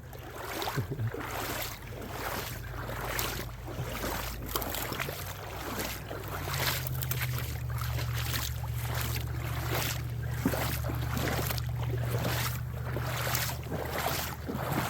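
Footsteps, about two a second, as a person walks along a winter creek, over a low steady drone that grows louder about six seconds in.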